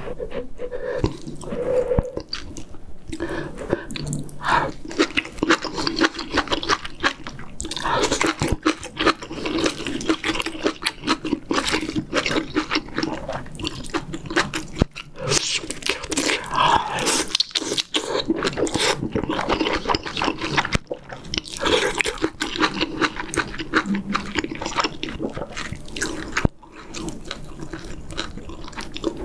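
Close-miked chewing and wet mouth sounds of a person eating rice with kimchi stew, going on unevenly throughout.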